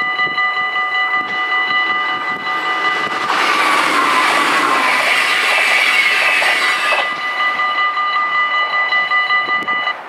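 Level-crossing bells ringing in a steady pulse, stopping just before the end. From about three seconds in to about seven, an NS ICMm Koploper electric train passes through with a loud rush of wheel and running noise and a falling whine.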